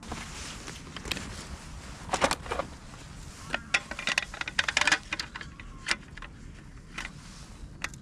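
Irregular clinks and rattles of camping cookware and gear being handled, coming in small clusters, busiest from about two to five seconds in, over a steady low rumble.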